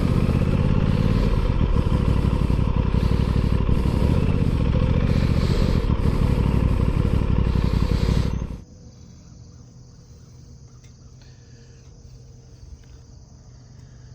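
Aprilia Tuono 660's parallel-twin engine running with wind noise on the microphone, cutting off abruptly about eight and a half seconds in. After that, a steady high chirr of crickets.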